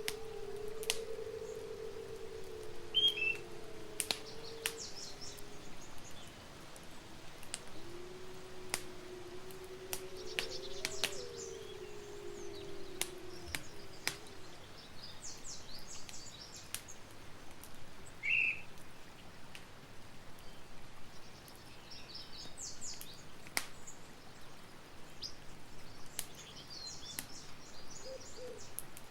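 Campfire crackling with scattered sharp pops, while birds chirp in the background. Through the first half a low, drawn-out wavering call also sounds.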